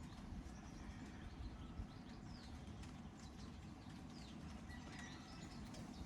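Birds chirping faintly, a scatter of short high calls that sweep up and down, over a steady low rumble.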